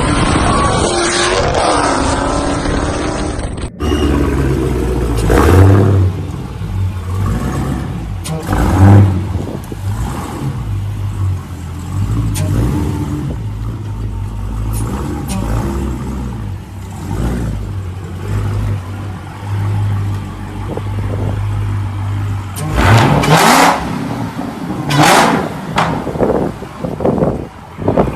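Dodge Challenger Hellcat's supercharged 6.2-litre V8 with its mufflers deleted, idling with a deep rumble and revved in short blips, with several sharp revs near the end.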